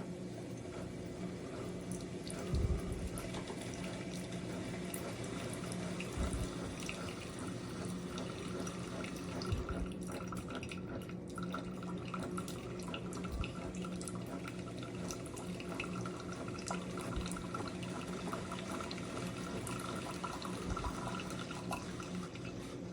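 Single-serve coffee maker brewing: a steady pump hum with water running and dripping.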